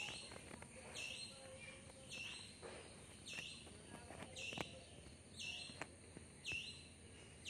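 A bird's short, high chirp repeated evenly about once a second, faint, with a few soft clicks between the calls.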